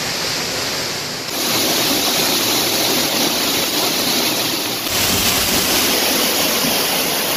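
Waterfall: a loud, steady rush of falling water, stepping up in level about a second in and changing again about five seconds in.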